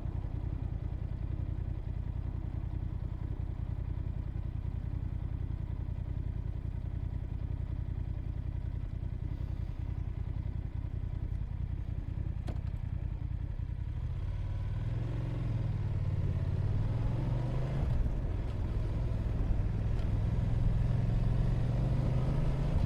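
Motorcycle engine idling steadily, then about two-thirds through it revs and gets louder, its pitch rising and falling as the bike gets under way.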